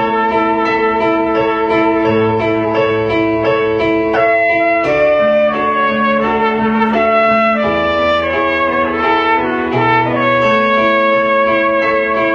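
Trumpet playing a slow melody of held notes over a piano backing track.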